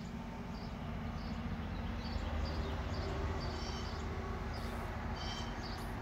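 Small birds chirping in short high calls, more often in the second half, over a steady low rumble.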